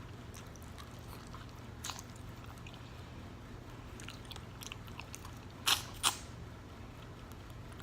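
A person chewing food close to the microphone, with a few soft mouth clicks and two sharper, louder clicks close together about three-quarters of the way through.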